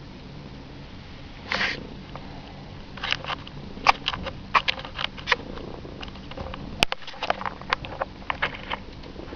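Domestic cat purring steadily right at the microphone, with a brief scuff and then a run of irregular sharp taps and clicks as the cat paws at the camera.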